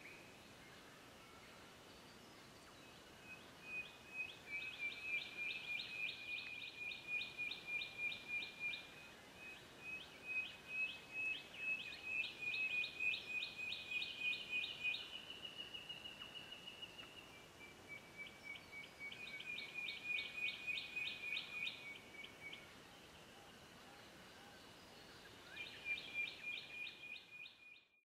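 A bird calling in four long bouts of rapid pulsed trills, each lasting several seconds, with short pauses between them.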